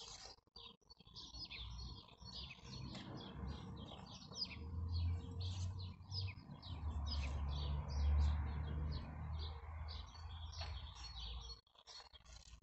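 Small birds chirping and twittering over and over, with a low rumble that swells in the middle and drops away near the end.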